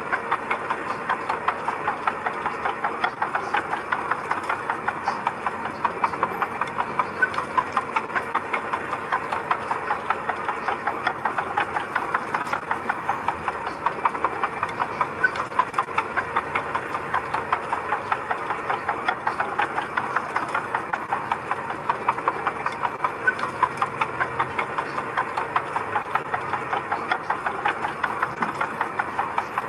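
Diesel engine of a construction machine running steadily, with a fast, even clatter of sharp clicks over it.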